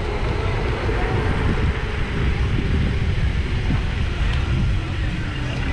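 Steady wind rumble buffeting the microphone of a moving camera, with no distinct single events.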